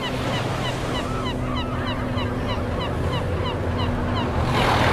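Many birds calling in short, quick falling cries over the wash of sea waves, with a wave surging louder near the end. A low steady hum runs underneath.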